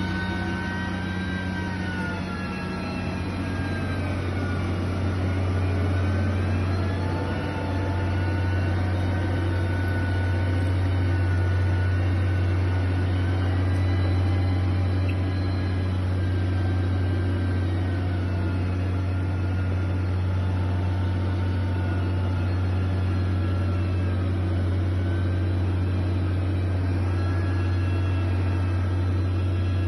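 Heavy diesel machinery engine running steadily under load, a deep continuous hum with a slowly wavering whine above it.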